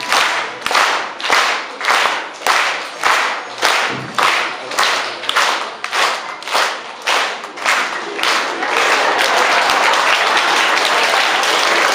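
Audience clapping in unison, about two claps a second, then breaking into continuous ordinary applause about eight and a half seconds in.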